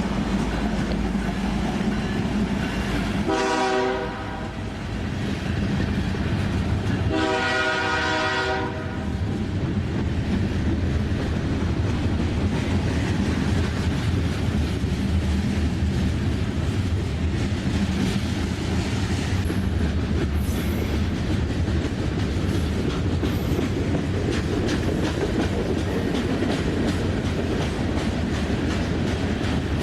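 A locomotive horn sounds a short blast about three seconds in and a longer one about seven seconds in. A train rolls past with a steady low rumble and wheels clicking over rail joints.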